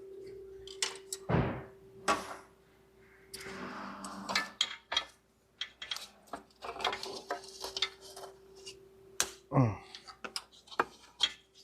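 Hand tools and metal engine parts clinking and knocking in an irregular series of sharp clicks while components are unbolted and unplugged, over a faint steady hum.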